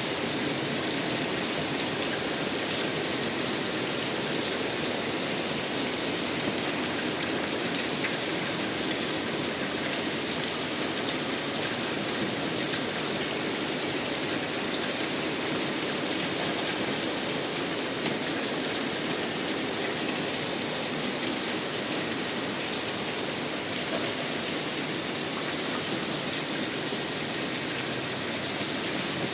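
Steady heavy rain falling, an even, unbroken hiss of drops.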